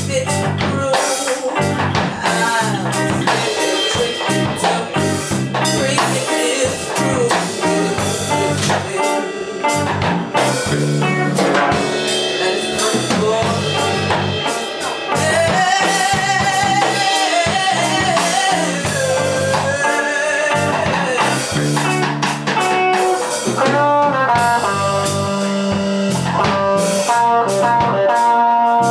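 Blues band playing live, with drum kit and bass under a wavering lead line, most likely guitar.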